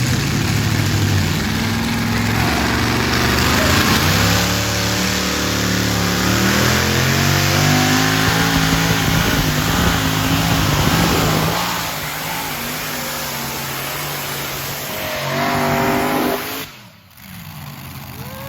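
Superstock pulling tractor engine run at full throttle down the track, its pitch climbing over the first few seconds and staying loud until it eases off about twelve seconds in. A short rev follows near the end before the sound cuts off sharply.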